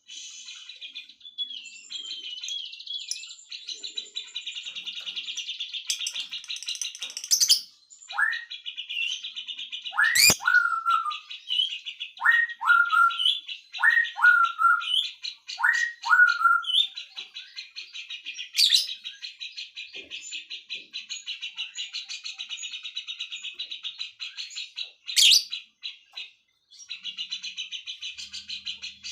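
Songbirds singing: one bird keeps up a fast, high, continuous twittering song with a short break about 26 seconds in, while another gives a run of about five rising whistled calls in the middle. A few sharp clicks stand out.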